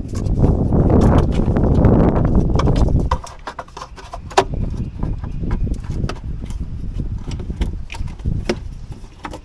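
A low rumbling noise for about three seconds, then scattered light clicks and knocks of plastic trim and wiring being handled on the Jeep.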